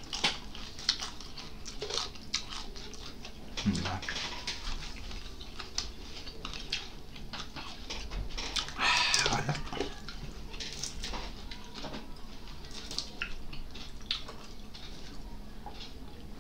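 Close-up mouth sounds of eating: chewing with many small wet clicks and lip smacks, and a brief murmured voice about nine seconds in.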